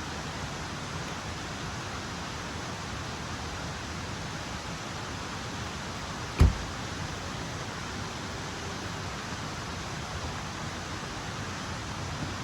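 Steady rushing noise of water, with a single sharp thump about halfway through.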